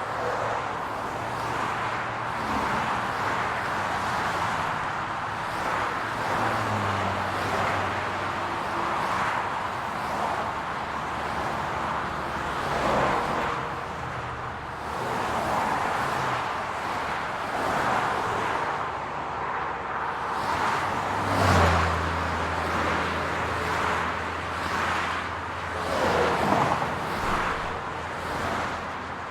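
City street traffic: a steady wash of road noise with cars passing, the loudest passes coming about halfway through and twice in the last third. From about two-thirds of the way in, a low steady engine hum sits under the traffic.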